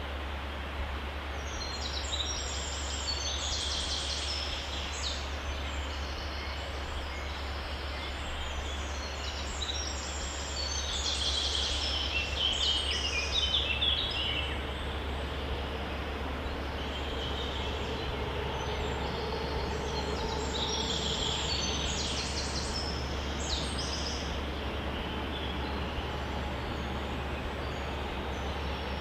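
Steady outdoor background noise with a constant low hum, broken by three spells of high, rapid chirping from small animals.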